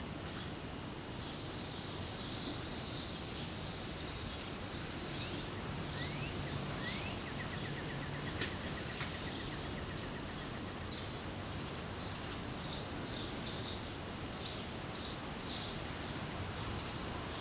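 Steady outdoor hiss with small birds chirping on and off: many short high chirps, two quick rising whistles, and a brief rapid trill near the middle.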